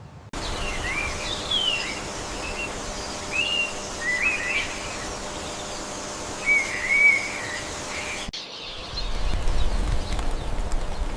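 Birds chirping over a steady outdoor background, a scattering of short whistled calls that rise and fall. The ambience cuts off abruptly about eight seconds in, replaced by a lower, rumbling background.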